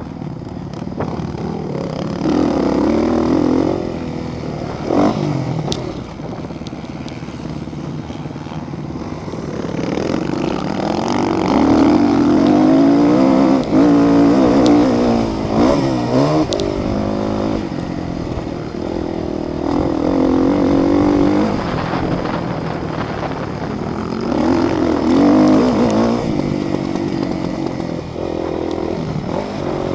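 Motocross motorcycle engines revving and passing. Several engines overlap, their pitch rising and falling, and they swell louder a few times, most of all about a third to halfway in.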